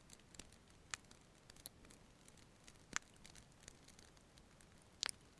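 Faint crackling of a fireplace fire: scattered sharp pops and small ticks, the strongest about a second in, three seconds in and near the end.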